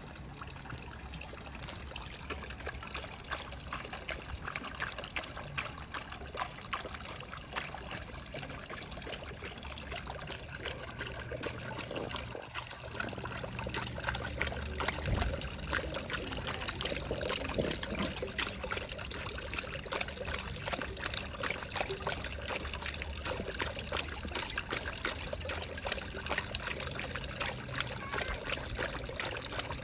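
Running water trickling and splashing steadily while a thirsty dog drinks at it; the splashing grows a little louder about halfway through.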